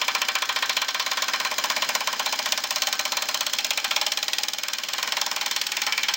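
Pneumatic impact wrench hammering continuously on a rusted bolt, a steady rapid rattle of blows as it tries to break the bolt loose.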